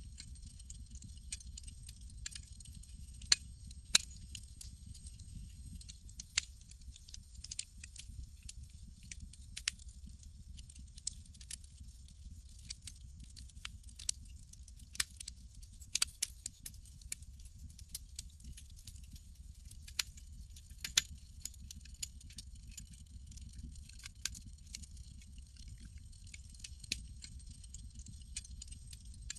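Wood campfire crackling: irregular sharp pops and snaps, a few much louder than the rest, over a steady low rumble.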